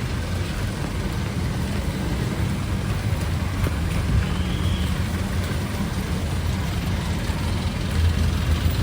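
Street traffic: motor vehicle engines idling and running with a steady low hum, under a constant even hiss of background noise.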